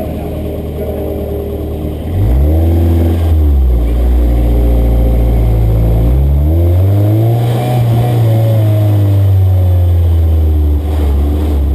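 A car engine revving: the pitch climbs sharply about two seconds in and settles, then rises again around six seconds in and holds high before easing off near the end.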